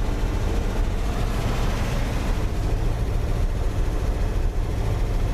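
Chevrolet 350 small-block V8 idling steadily while warming up from a cold start, the choke still on.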